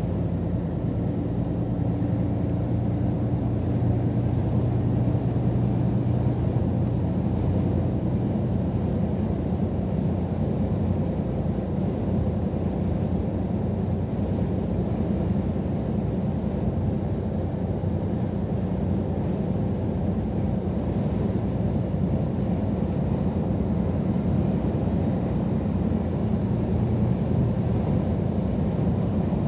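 Scania R500 truck on the move: a steady low engine drone with road noise, unchanging throughout, with a couple of faint engine tones that fade out after about eight seconds.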